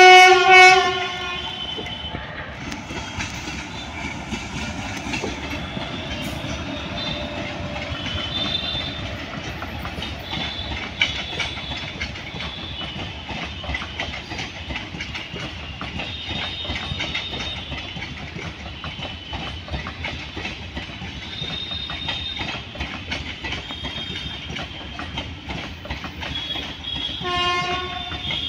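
A passenger train passes close by. It opens with a short locomotive horn blast, then its coaches roll by with a steady rumble and rhythmic clickety-clack of wheels over the rail joints. A second short horn blast sounds near the end.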